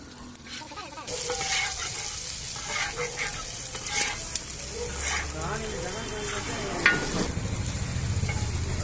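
Food sizzling in hot oil on a street-stall tawa (flat iron griddle), with a spatula scraping and clicking against the griddle. The sizzle starts about a second in and cuts off shortly before the end.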